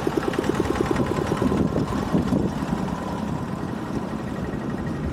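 A small engine running, with a rapid even pulsing for the first second or so that then turns rougher.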